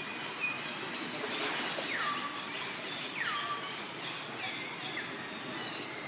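A bird calling outdoors: a short whistle that slides downward in pitch, repeated four or five times about a second apart, over a steady outdoor background hiss.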